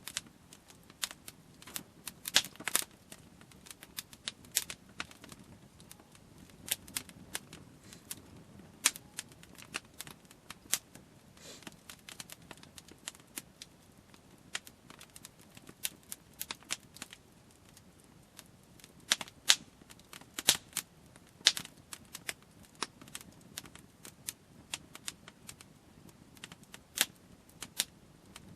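Wood campfire crackling, with sharp, irregular pops and snaps over a low hiss.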